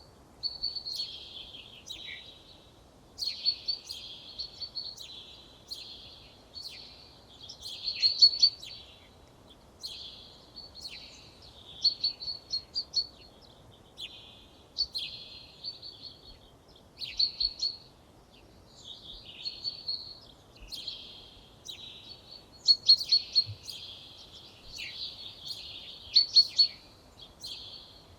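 Songbird song: short, rapid phrases of sharp chirps and trills, repeated every second or two with brief pauses between them, over a faint background hiss.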